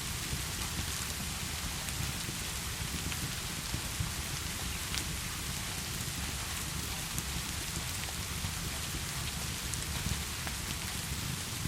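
Steady heavy rain falling, an even hiss with a low rumble beneath it and occasional faint ticks and pops.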